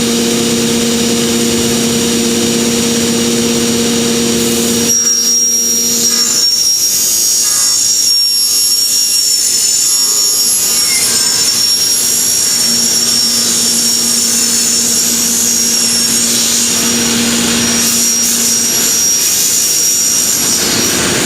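Servo-driven automatic cutting machine running. A steady hum gives way about five seconds in to a noisier sound with a high, wavering whine, and the hum comes back partway through.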